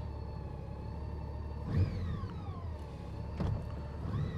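Honda Goldwing GL1800 flat-six engine idling just after start-up, with a low steady rumble. The throttle is blipped three times; each time the revs jump and then fall slowly back to idle.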